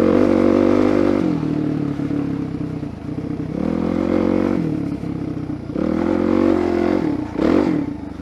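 Suzuki DR-Z400SM's single-cylinder four-stroke engine being ridden off-road, the throttle opened in three swells of about a second each, with a quick blip of revs near the end.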